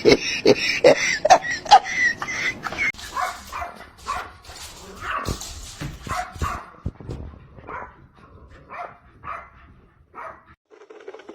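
A dog barking: a fast run of barks, about three a second, for the first two seconds or so, then scattered barks and yips that thin out toward the end.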